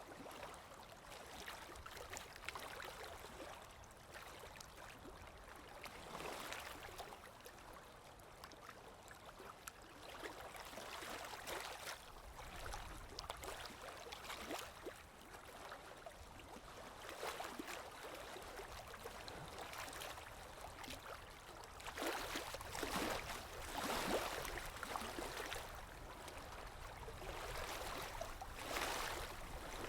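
Waves washing in and drawing back, a soft rushing that swells and eases every few seconds, with stronger surges near the middle of the second half and near the end.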